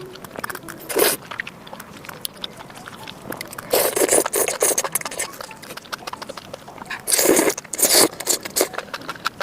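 A person eating close to the microphone, with many small wet mouth clicks. Louder bursts of eating noise come about a second in, around four seconds, and again around seven to eight seconds.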